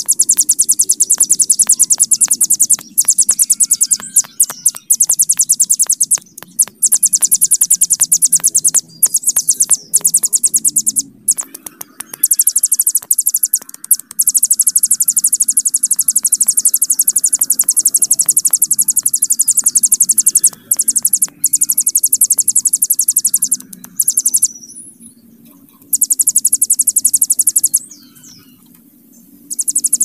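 Ciblek gunung, a prinia, singing its long, very fast buzzing trill ('bren panjang') in long high-pitched runs. The song breaks off briefly about twelve seconds in and twice more in the last third.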